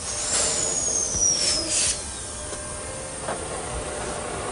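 Docklands Light Railway train easing in to couple its autocoupler to a failed train. A high squeal slides slowly down in pitch over about two seconds, with brief hisses of air, then a single click a little after three seconds in.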